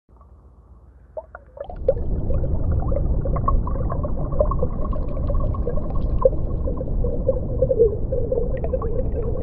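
Underwater sound: a steady low rumble full of quick pops and clicks, coming in about two seconds in after a quiet start with a few scattered pops.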